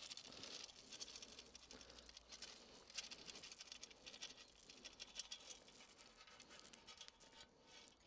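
Faint, dense pattering and rustling with many small ticks, as of loose garden material being spread over a bed, fading near the end.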